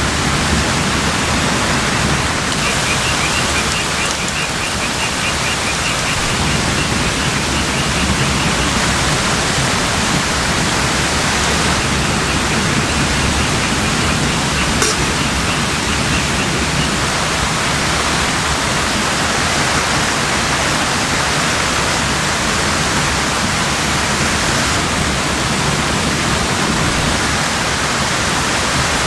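Steady, loud rushing of water, either heavy rain or a waterfall. A faint, fast, high-pitched trill sounds over it twice, for several seconds each time.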